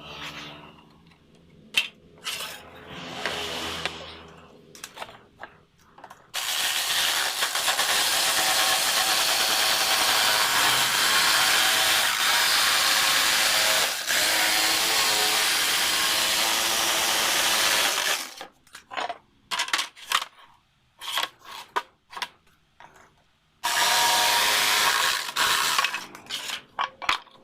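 A handheld power tool working wood, running for about twelve seconds and then again briefly, with knocks and clatter of handling between the runs.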